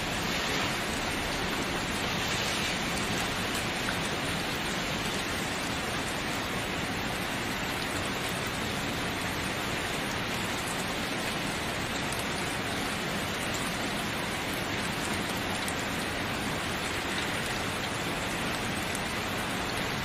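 Steady rain falling, an even hiss of many drops with no distinct single drops or thunder.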